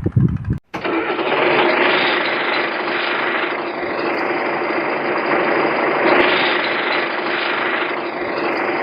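Steady engine noise, like a truck running, starting abruptly after a brief silent gap less than a second in.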